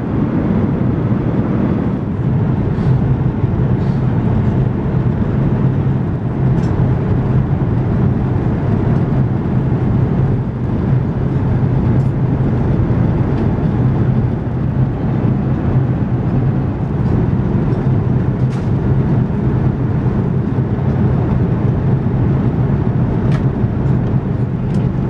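Steady cabin noise aboard an Airbus A380: a constant low drone with a few faint clicks.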